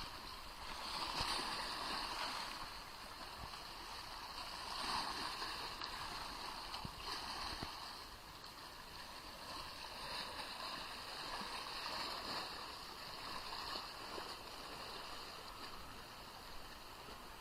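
Small Black Sea waves splashing and washing onto the shore, each wash swelling and fading every two to three seconds.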